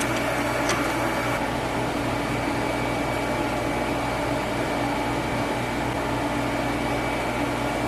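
Steady mechanical hum and fan noise from running shop equipment, with a thin high whine over a low hum.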